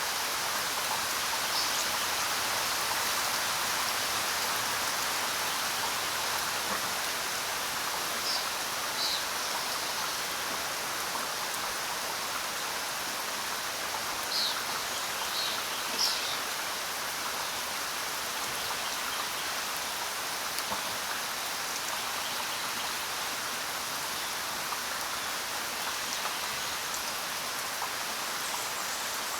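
Steady rain falling on the ground: an even, dense patter of raindrops. A few brief, higher sounds stand out over it, mostly in the first half.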